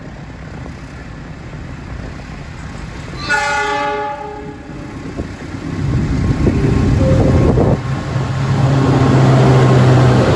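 A train horn sounds one blast of about a second, roughly three seconds in. From about six seconds in, the train comes through with a rising rumble and a steady low hum that grows louder.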